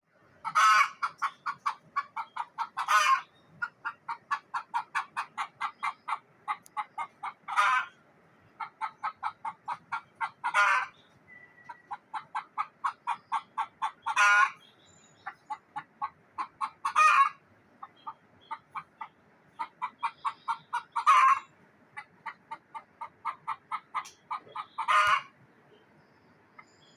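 Frightened desi hen's alarm cackle: runs of rapid, evenly spaced clucks, each capped by a louder drawn-out squawk, repeated about eight times and stopping shortly before the end.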